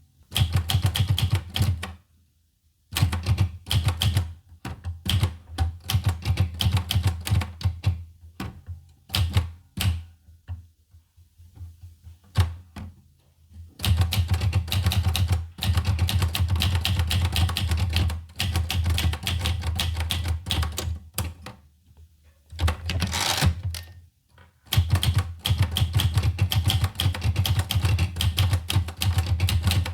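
Olivetti Lettera 25 manual portable typewriter being typed on: quick runs of key strikes broken by short pauses, with a slower, sparser stretch about a third of the way through.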